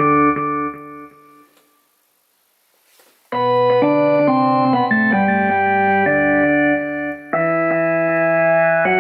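Electric-piano-like keyboard chords that fade out about a second and a half in, a short pause, then new sustained chords start abruptly about three seconds in and change every second or so.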